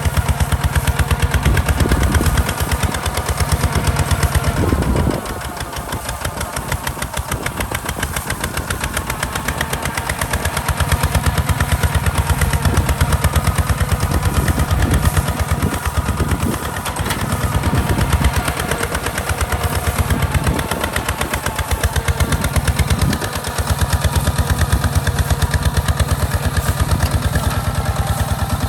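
Hinota HG Gold 155 DI tractor's diesel engine running with a rapid, even thudding, dropping in loudness about five seconds in and dipping briefly again around twenty-three seconds.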